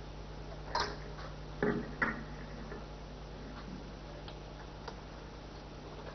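A few short knocks and clicks, three of them in the first two seconds and two fainter ticks later, over a steady low electrical hum.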